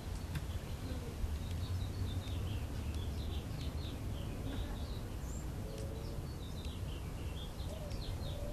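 Small birds chirping in quick, irregular notes over a steady low outdoor rumble.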